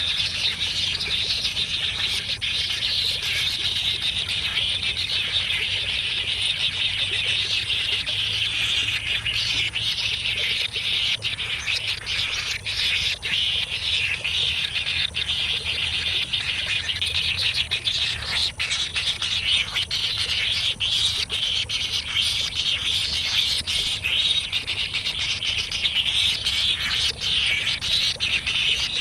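Baby birds begging in the nest, a continuous high-pitched chirping chorus with many short clicks through it.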